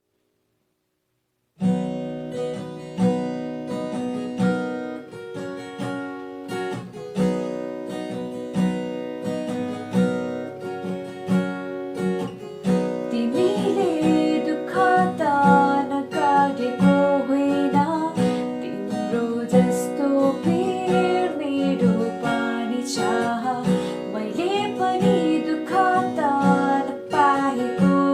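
Acoustic guitar intro, strummed in a steady rhythm, starting about a second and a half in. From about halfway a higher melodic line with sliding notes joins over the strumming.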